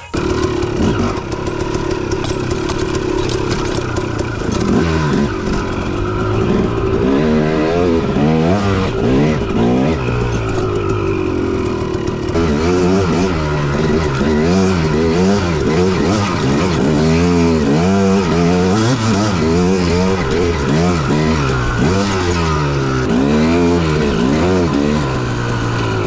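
Dirt bike engine being ridden, revving up and down over and over, its pitch rising and falling every second or so.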